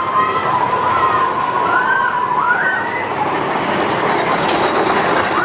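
Big Thunder Mountain Railroad's mine-train roller coaster running on its track: a steady rumble with high, wavering squeals that rise and fall during the first few seconds.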